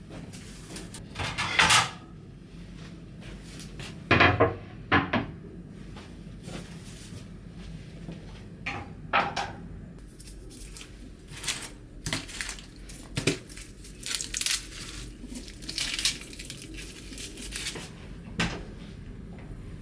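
Kitchenware being handled: dishes and utensils clinking, knocking and scraping at irregular moments, with louder clatters near the start and about four to five seconds in.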